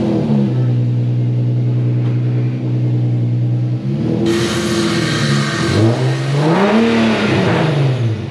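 Infiniti G37's 3.7-litre V6 with freshly fitted Stillen Gen 3 intakes, just started: it settles from the start-up flare to a steady idle, then is revved twice, the pitch rising and falling each time. The first rev, about four seconds in, comes with a loud rush of intake noise.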